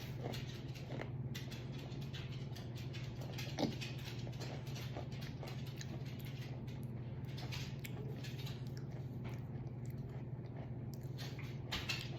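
Someone chewing crunchy cinnamon Scooby Snacks: many small, irregular crunches, one louder crunch about three and a half seconds in, over a steady low hum.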